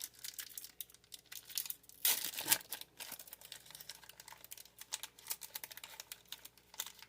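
Foil Pokémon booster pack wrapper crinkling and being torn open, with a louder rip about two seconds in, then light rustling and clicking as the pack and cards are handled.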